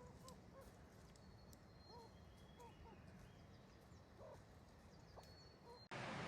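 Faint short animal calls, each a quick upturned chirp or cluck, repeating about every half second, with a thin high steady whistle in the background. Near the end it cuts abruptly to a much louder, even rushing noise.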